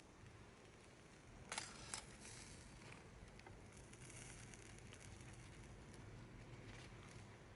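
Campfire crackling faintly, with scattered small ticks and a soft hiss, and two sharp pops about a second and a half in.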